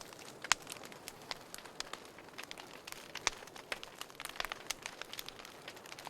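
Wood fire in a fireplace crackling, with irregular sharp pops and snaps over a soft hiss; the loudest pops come about half a second in and just after three seconds.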